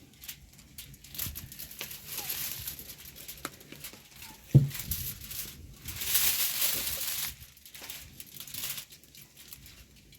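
Crinkling and rustling handling noise in a few spells, with scattered clicks and one sharp knock a little under halfway through.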